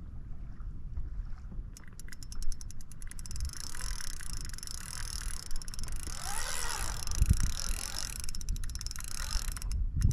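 Spinning reel (Penn Clash II 4000) with its drag clicking in runs of rapid clicks as a hooked fish pulls line, a sign of a heavy fish running against light tackle.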